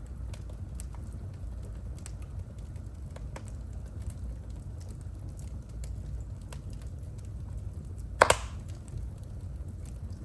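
Wood fire burning in a fireplace, with a steady low rumble and scattered sharp crackles. One loud pop comes near the end.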